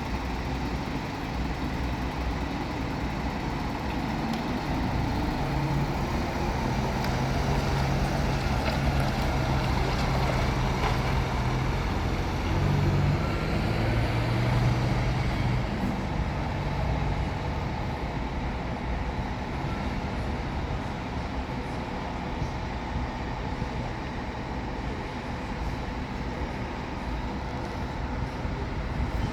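Scania K500C double-decker coach's diesel engine running, with steady road noise. A few seconds in, the engine note rises and grows louder, holds through the middle, then eases back.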